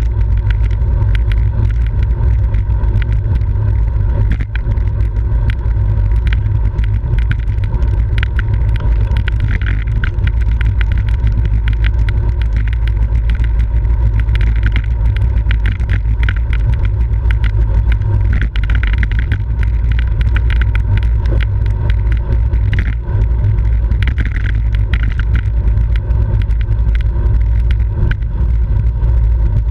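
Wind rushing over the microphone of a camera riding along on a racing bicycle at speed: a loud, steady low rumble, with many small clicks and rattles over it.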